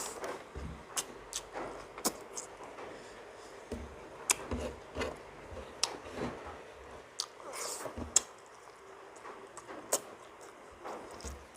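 A person chewing and eating paksiw na bangus (milkfish stewed in vinegar), with irregular wet mouth clicks and smacks.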